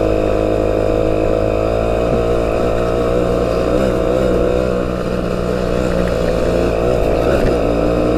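Motorcycle engine running at a steady cruising speed, its note wavering slightly, with a brief dip and change of pitch about seven seconds in.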